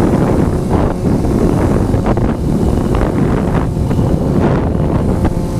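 Loud, steady wind buffeting a helmet-mounted microphone on a motorcycle moving at speed, a low rumbling roar that covers the bike's own sound.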